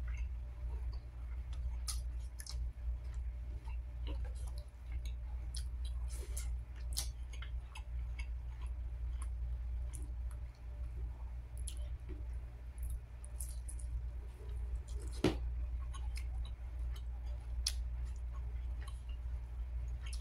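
Close-miked chewing and mouth sounds of a person eating chicken and rice by hand: scattered wet clicks and smacks, with one louder click about fifteen seconds in, over a steady low hum.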